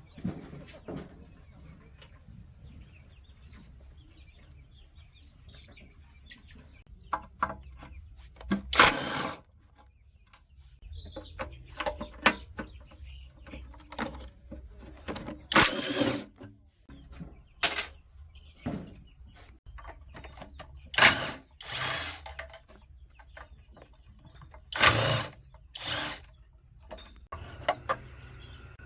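Hand tools working on metal engine parts: a series of sharp knocks and short grinding or scraping bursts, irregularly spaced.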